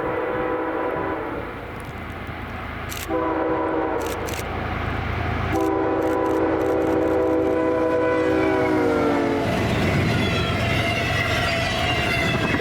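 A CSX freight locomotive's multi-note air horn. One blast ends about a second in, a short blast follows around three seconds, then a long blast whose pitch drops as the locomotive passes. The rumble of the train rolling by then takes over.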